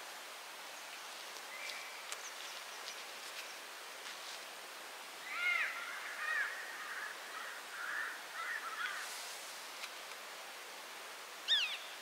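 Birds calling: a run of short, arching chirps about halfway through and one sharp, falling call near the end, over a steady faint hiss.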